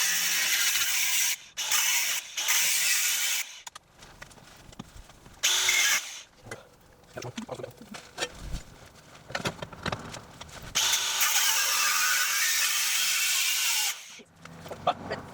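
Power cutting tool, most likely an angle grinder, cutting through the car's front-end metal in four bursts, the longest about three seconds near the end. Scattered clanks and knocks of metal fill the pauses between cuts.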